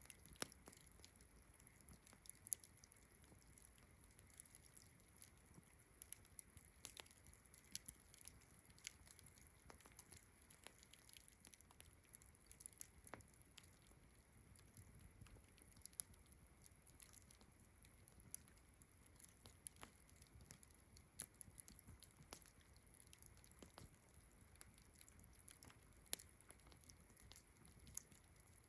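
Campfire crackling faintly, wood snapping and popping at irregular moments, with a couple of sharper pops near the start and near the end. A steady high chirring of crickets runs behind it.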